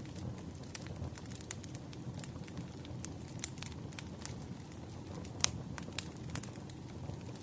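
Wood fire crackling: irregular sharp pops and snaps over a low, steady rumble, with a few louder pops in the second half.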